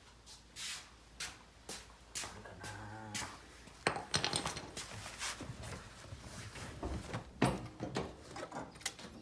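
A string of irregular clicks, knocks and light metallic rattles, as from something being handled, growing busier from about four seconds in, with a brief wavering tone around three seconds in.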